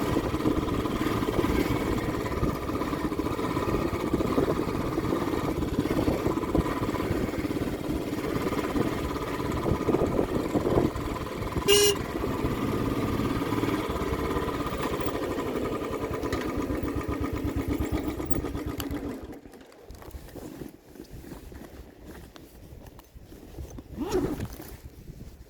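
Motorcycle engine running steadily under way, with a short horn beep about twelve seconds in. The engine noise drops away sharply about nineteen seconds in, leaving a much quieter stretch.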